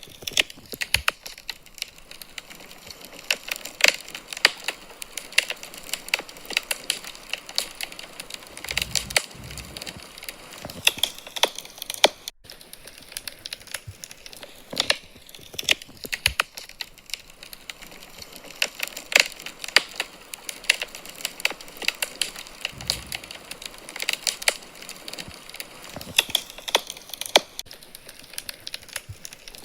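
Wood fire in a fireplace crackling, with irregular sharp pops and snaps over a soft, steady hiss.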